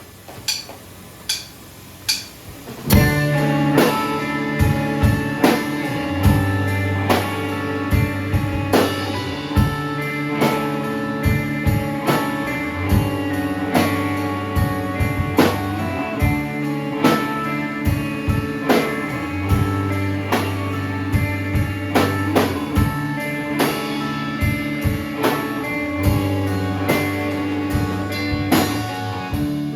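Live rock band starting a song: a few evenly spaced clicks count it in, then drum kit, guitar and bass come in together about three seconds in and play on with a steady beat.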